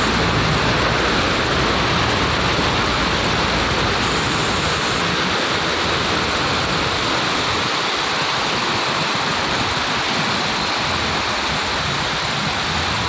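Rushing floodwater: a dense, steady noise of fast-flowing water that does not let up.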